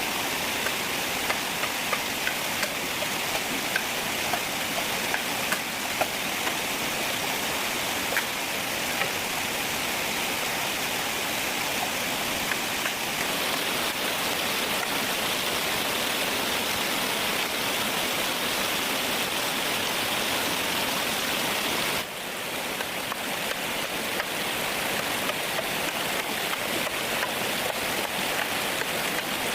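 Steady rain with scattered drops ticking. The sound dips and changes abruptly about two-thirds of the way through.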